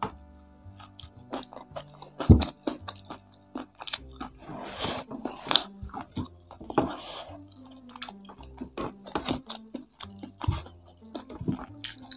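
Close-miked chewing and biting of fried chicken with its crispy kremes crumbs: wet mouth clicks and crunches, with a loud thump about two seconds in. Quiet background music with a steady bass line runs underneath.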